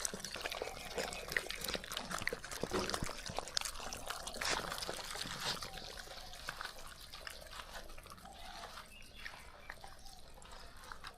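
A beagle eating at its bowl: a steady, busy run of crunching, clicking and wet mouth sounds that grows quieter over the second half.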